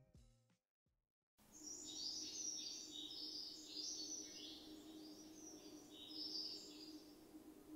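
The tail of background music dies away, and after about a second of silence, faint small birds chirping come in over a low steady hum.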